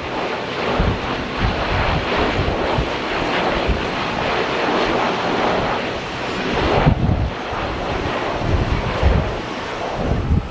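Airliner engine noise, a loud, steady rush, with strong gusting wind buffeting the microphone in low, irregular thumps. The buffeting is heaviest about seven seconds in.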